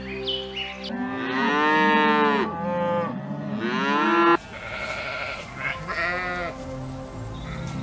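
Young Holstein cattle mooing in a few long calls that rise and fall in pitch. After a sudden cut, a sheep bleats once, more briefly.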